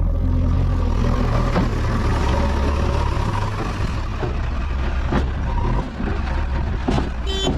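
Diesel engine of a JCB 3DX backhoe loader running steadily under work, with a few sharp knocks scattered through.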